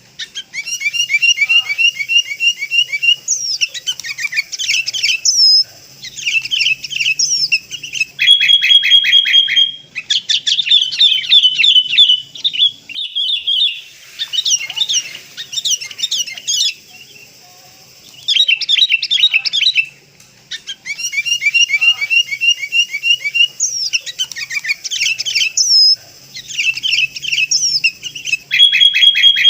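Sooty-headed bulbul calling: quick runs of bright chirps and short whistled phrases, broken by a couple of brief pauses. It is a looped lure recording, and the same run of phrases comes round again after about twenty seconds.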